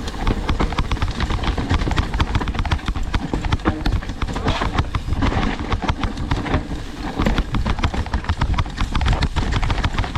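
Mountain bike clattering down a rough trail: a rapid, irregular rattle of tires striking the ground and the bike shaking, over a steady low rumble.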